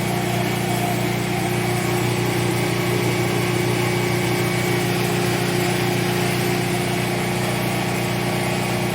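Steady drone of a small portable gas generator running, with a washing machine running off its power on a timer setting expected to fail. The sound holds even, with no change.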